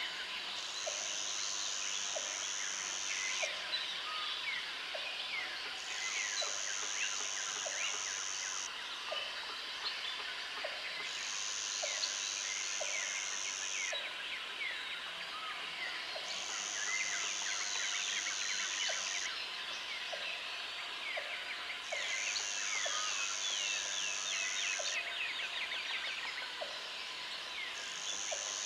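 Jungle ambience: a high insect drone that switches on for about three seconds and off for about two, over a dense chorus of many birds chirping and calling. A short low note repeats about once a second beneath them.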